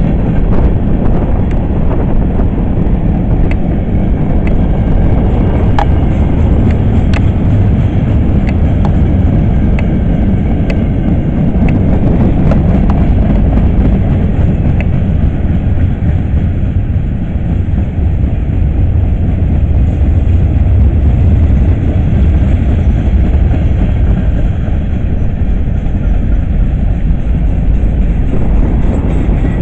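Freight cars of a BNSF train rolling past, a loud steady rumble of steel wheels on rail. Sharp clicks and clanks come through it in the first half, thinning out after.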